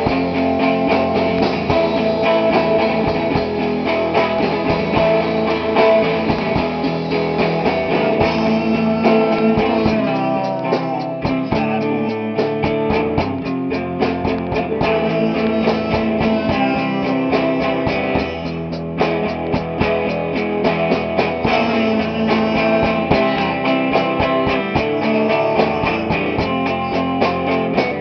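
Rock band playing a song in rehearsal: strummed guitar with a drum kit keeping a steady beat.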